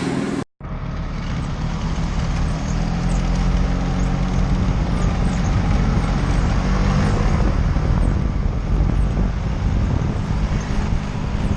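Vespa scooter engine running steadily under way, a low hum mixed with road and wind noise.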